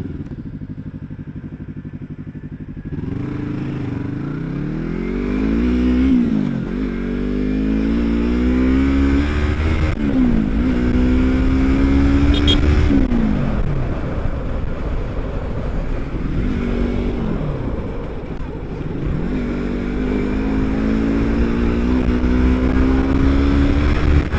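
Yamaha R25's parallel-twin engine under way, pulling up through the revs and easing off again several times. The pitch climbs, then drops sharply at each shift or roll-off, over steady wind rush. The first few seconds are quieter and steadier before the engine picks up.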